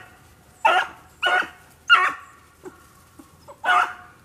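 Rabbit-hunting hounds barking on the trail of a rabbit during a chase: four loud barks, unevenly spaced, with a few faint yelps between them.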